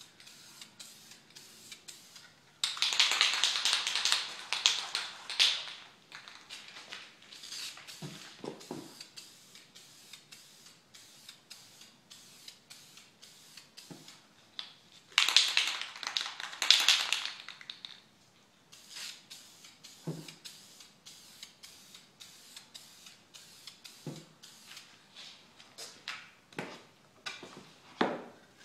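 Aerosol spray paint can spraying in two bursts of hiss, one of about three seconds near the start and a shorter one of about two seconds midway. Faint short clicks come between the bursts.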